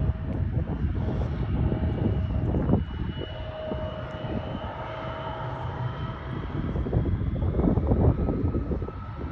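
Jet airliner engines running: a steady low rumble with high whining tones that drift slightly in pitch.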